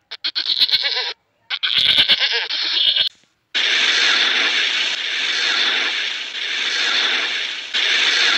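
Lambs bleating twice, each a wavering call about a second and a half long. From about three and a half seconds in, a steady rushing noise takes over.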